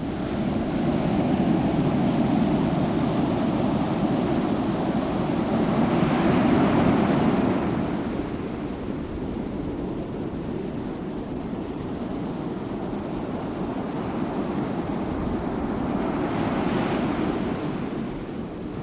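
Ocean waves breaking and washing up the shore in a steady rush. The surge swells and falls back, strongest about six seconds in and rising again near the end.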